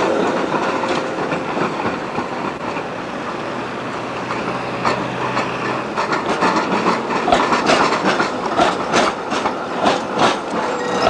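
Tram running on street track, its wheels clattering over rail joints and junction points. The clicks come thick and fast in the second half.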